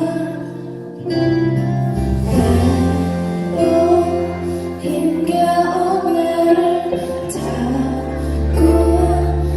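Concert music: women's voices singing a melody with vibrato over long held low accompaniment notes.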